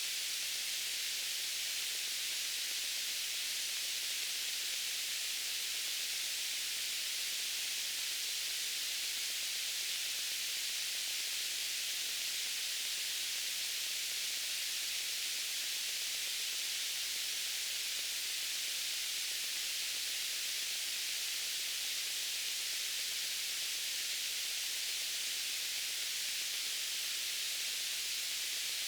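Steady white noise: an even, unchanging high hiss.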